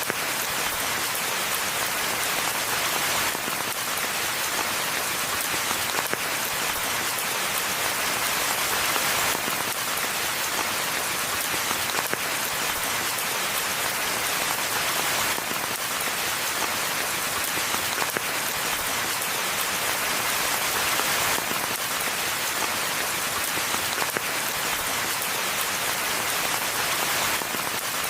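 Steady, even rainfall, a dense hiss with single drops ticking through it.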